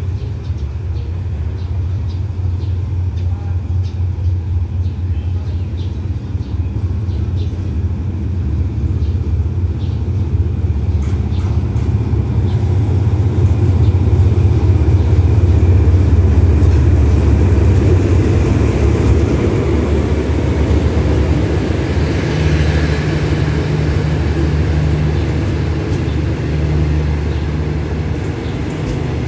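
Hitachi diesel-electric locomotive 4516 arriving with the special express, its engine and wheels making a deep rumble. The rumble grows loudest as the locomotive passes about halfway through, then eases as the coaches roll by and slow. A short hiss comes about two-thirds through.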